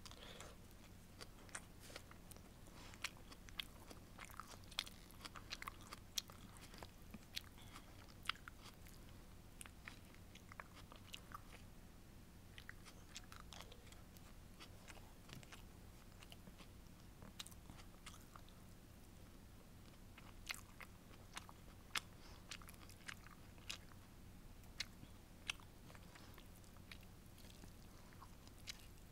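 Close-miked chewing of sweet and sour fish with rice: many small sharp mouth clicks, thinning out to a quieter stretch around the middle.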